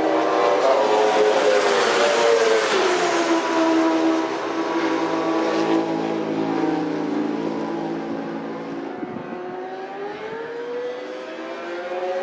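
High-revving sport motorcycle engines on a race track. A loud pass in the first few seconds has the engine pitch falling as it goes by. After that it is quieter, and an engine note climbs steadily toward the end as a bike accelerates.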